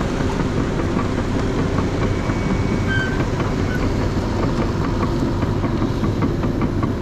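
Truck on the road towing a loaded trailer: steady engine and road rumble with a constant clatter of small rattles.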